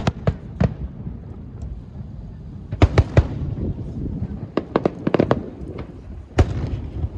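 Fireworks display bursting overhead: a few sharp bangs in the first second, a cluster of bangs about three seconds in, a run of quick crackling pops around five seconds, and a single loud bang near the end, over a low rumble.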